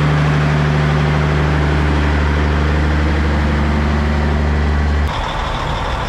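Heavy truck's diesel engine running steadily at a low, even pitch, stopping abruptly about five seconds in and giving way to a rougher, noisier truck sound.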